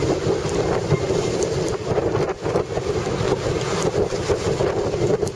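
Storm-force wind buffeting the microphone: a loud, continuous rumble that flutters with rapid gusts.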